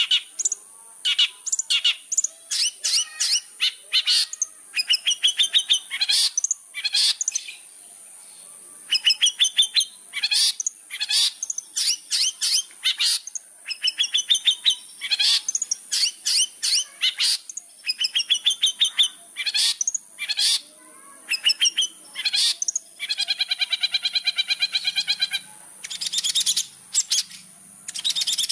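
Long-tailed shrike (cendet) singing: rapid, chattering runs of short, sharp repeated notes with brief pauses between them, and one longer buzzy note held for about two seconds near the end.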